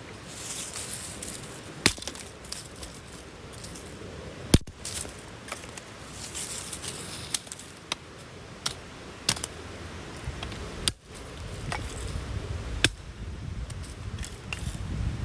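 Scattered sharp knocks and clicks, a few seconds apart, over a low steady background hiss.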